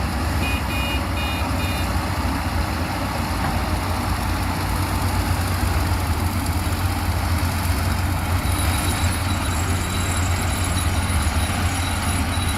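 A heavy diesel machine's engine running steadily. Three short electronic beeps come about half a second in, spaced about half a second apart.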